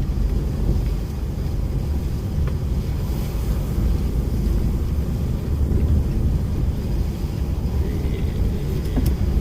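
DAF lorry driving along: a steady low rumble of engine and road noise.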